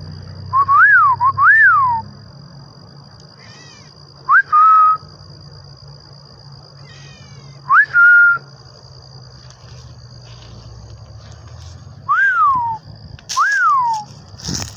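A person whistling pure, loud calls to a bird, each rising then falling or rising then held: two close together near the start, single ones around 4 and 8 seconds, and two more near the end. Between the whistles, fainter high chirps slide downward, the bird answering.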